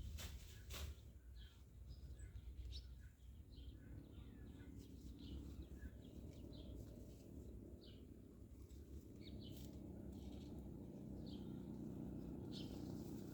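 Faint outdoor ambience: small birds chirping in short, scattered calls over a steady low rumble, with a sharp click just under a second in.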